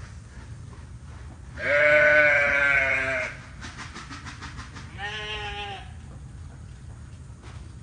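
Farm animal bleating twice: a long, loud bleat about two seconds in, then a shorter one about five seconds in. A fast run of faint ticks comes between them.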